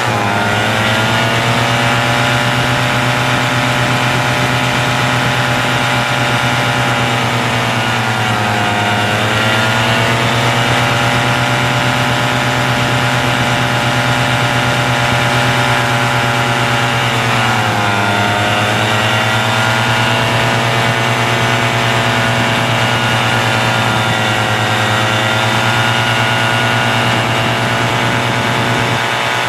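An engine running steadily, its pitch dipping briefly and coming back up twice.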